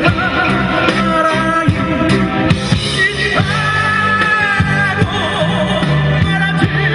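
Live rock band music: drum kit keeping a steady beat under guitar and a sustained melody line.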